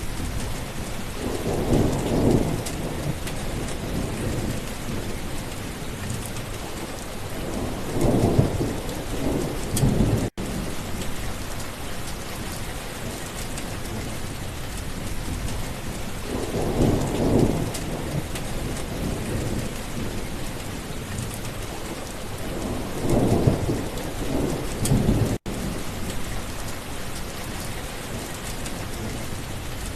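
Steady rain falling, with thunder rumbling four times, each rumble lasting about two seconds. The sound cuts out for an instant twice.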